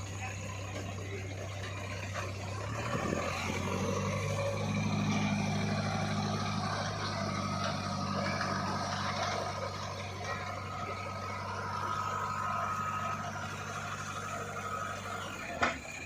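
Heavy diesel engine running steadily, its note getting fuller about three seconds in as it takes on load. There is a sharp knock near the end, after which the steady engine tone stops.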